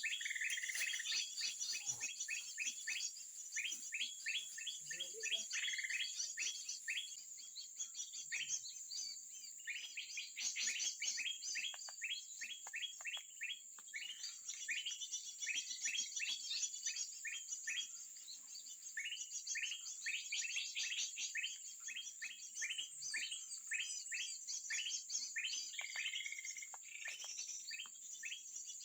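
Small songbirds chirping in quick, repeated runs of several notes a second, over a steady high-pitched buzz.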